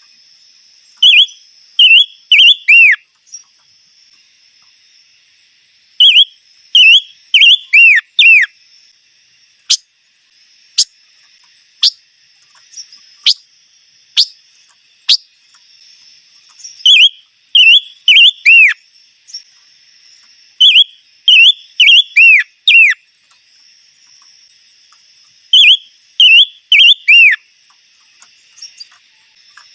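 A songbird, the 'chim ngũ sắc', singing loud clear whistled phrases. Each phrase is a quick run of three to five notes that slide downward, repeated every few seconds, with a few single sharp falling notes in the middle. A faint, steady high hiss like insects runs behind.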